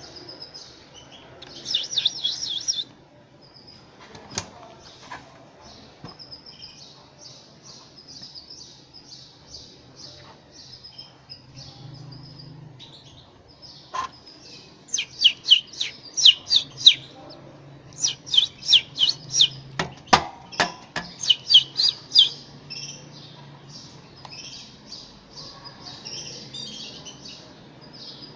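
Canary chicks begging for food: steady high-pitched cheeping, breaking into loud rapid runs of chirps about two seconds in and again through the middle stretch. A few sharp clicks are mixed in.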